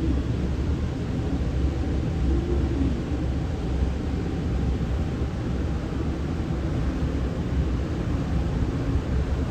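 Steady low rumble with a hiss, the background noise of a railway station platform, with no distinct event standing out.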